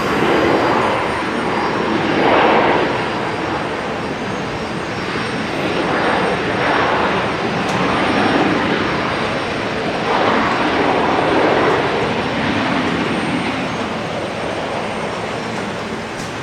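Jet engines of an arriving Boeing 737: a loud, broad roar that swells and eases several times.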